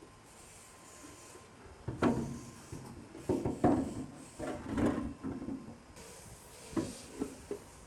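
A series of irregular knocks and clunks from objects being handled and set down. The first and loudest comes about two seconds in, a cluster follows over the next few seconds, and three short, sharp knocks come near the end.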